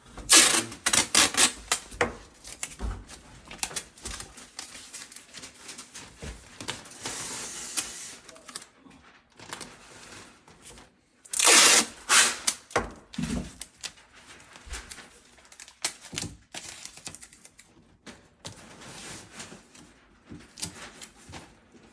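Masking tape being pulled off the roll and torn in loud rasping strips, about a second in and again near the middle, with scattered clicks and rustling as it is pressed into place.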